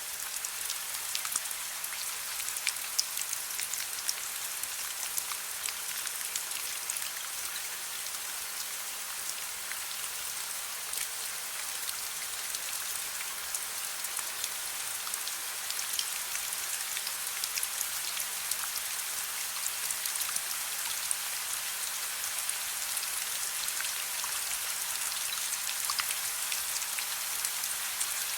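Steady rain falling on a surface, an even hiss with many small individual drop ticks throughout.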